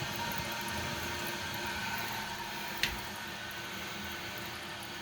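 American Standard toilet tank refilling after the water supply is turned back on: a steady hiss of water running through the fill valve. A single sharp click about three seconds in.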